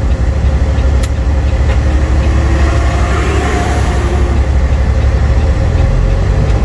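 Semi truck's diesel engine running at low speed, a steady deep throb with some hiss in the middle; the engine note shifts about six seconds in.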